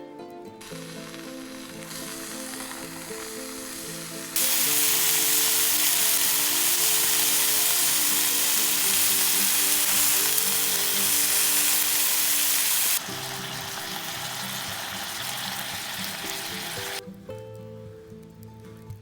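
A steady hissing noise over background music, coming in in steps and loudest in the middle stretch, then cutting off suddenly near the end.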